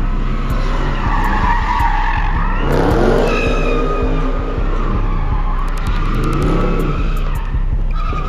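A car engine revving up and down hard while its tyres squeal and skid on the pavement, with two big rev swells, one about three seconds in and another about six seconds in.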